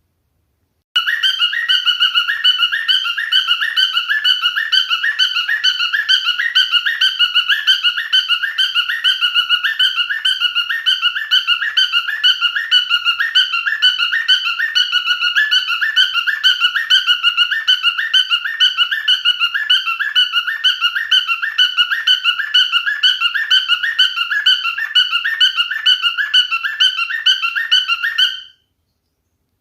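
Cockatiel whistling a fast, even warble, the same wavering note repeated several times a second without a break. It starts abruptly about a second in and cuts off sharply near the end.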